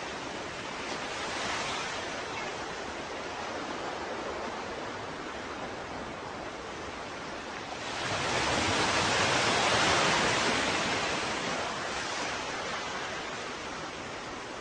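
Ocean waves washing ashore: a steady rush of surf, with one larger wave swelling up about halfway through and fading away a few seconds later.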